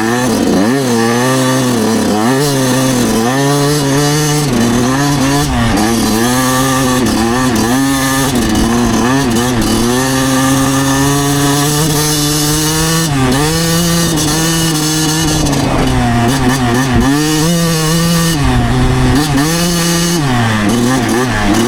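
2009 Yamaha YZ125's single-cylinder two-stroke engine under way, revving up and dropping back over and over as the throttle opens and closes and the gears change.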